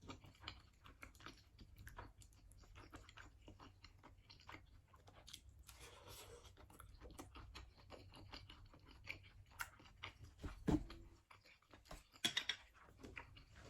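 Faint close-up chewing of chewy tapioca-and-shrimp dumplings: soft irregular mouth clicks and smacks, with one sharper knock about three quarters of the way through and a few louder smacks near the end.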